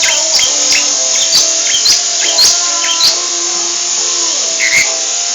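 Lovebird chirping: a run of short, sharp notes about two a second, each dropping quickly in pitch, over steady held tones.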